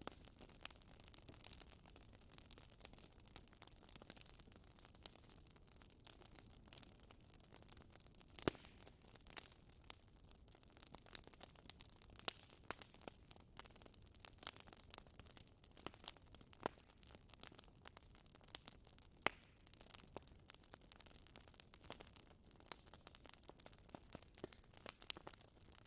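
Wood fire crackling in a fireplace: irregular sharp pops and snaps over a soft hiss, with two louder pops about eight seconds in and about nineteen seconds in.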